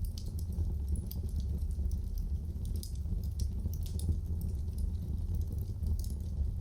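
Fire in a fireplace crackling: scattered sharp snaps and pops over a steady low rumble.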